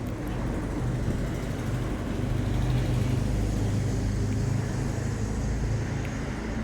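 Steady low rumble of a running motor vehicle engine, swelling a little about halfway through and easing near the end.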